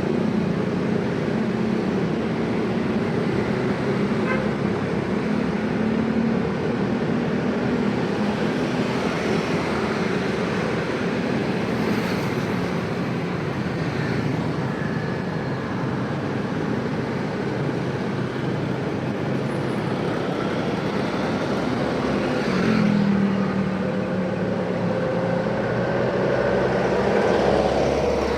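Dense road traffic: a steady mix of many vehicle engines and exhausts running and passing, with occasional horn toots. An engine note rises over the last few seconds as a vehicle pulls away.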